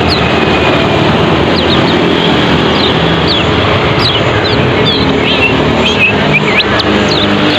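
Kecial kuning (lemon-bellied white-eye) chirping in quick, sharp notes that slide in pitch, coming thicker from about a second and a half in, over a loud, steady rushing background noise.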